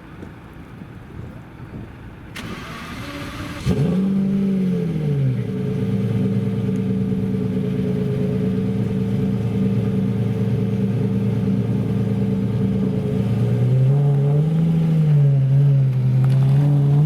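A supercar engine starting: the starter cranks for about a second, then the engine catches with a sharp rev flare that falls to a steady fast idle. The idle drops lower about two-thirds of the way through, then comes two light throttle blips.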